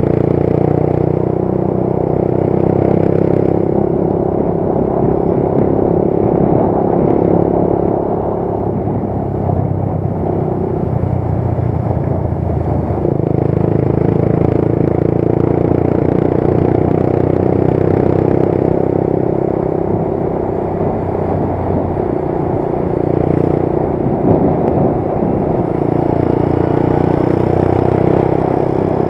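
Motorcycle engine running steadily while riding on the road, its note shifting a few times as the speed changes.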